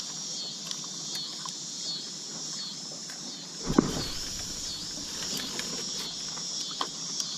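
A chorus of insects, crickets or similar, buzzing steadily high-pitched in gentle repeated swells. About four seconds in there is a single dull thump, the loudest moment.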